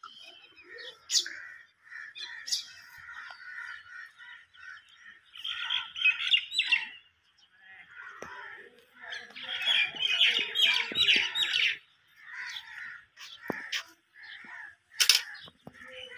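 Small birds chirping and chattering almost without a break, with busier, louder spells of chirping about six seconds and ten seconds in.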